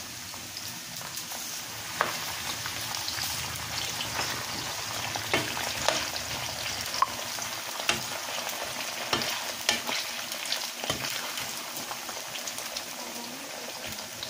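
Potato sticks frying in hot oil in a pan: a steady sizzle with frequent sharp crackles and pops, and a metal spatula scraping and clinking in the pan as the fries are stirred.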